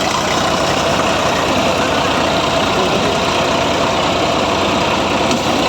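Tractor backhoe loader's engine running steadily at idle, with an even low throb.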